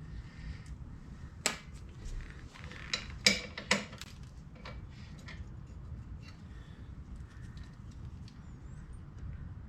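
Hand tools clinking on the steel suspension parts as the spring-plate bolts are worked on: a few separate sharp metallic clinks about one and a half seconds in and again around three to four seconds in, with small ticks between, over a low steady hum.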